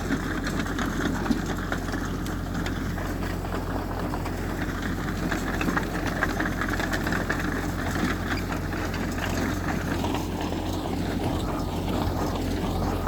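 Diesel engine of heavy earthmoving machinery running steadily with a deep low hum, with scattered small clanks over it.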